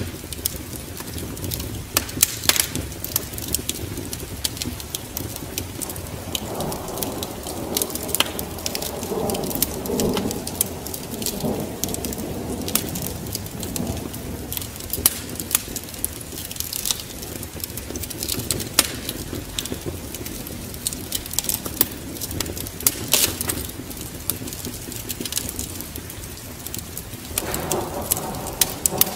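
Wood fire crackling with frequent sharp pops over steady rain. A low rumble of thunder swells about six seconds in and again near the end.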